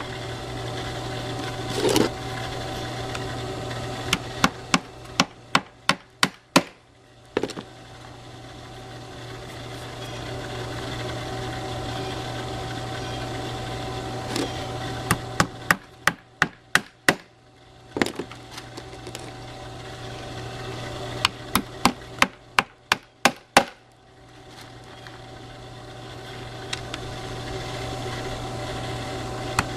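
Woodworking in a workshop: a steady motor hum that swells and fades, broken four times by runs of sharp, rapid taps or clicks at about four to six a second.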